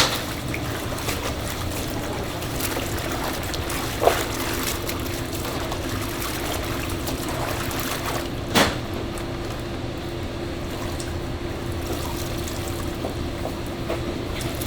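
Water running or being poured steadily in a kitchen, with a steady low hum coming in about four seconds in and two sharp knocks, about four and eight and a half seconds in.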